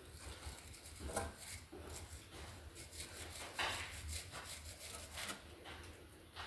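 Faint, irregular scraping and clicking of a small hand tool picking corrosion out of a tractor's battery cable connections.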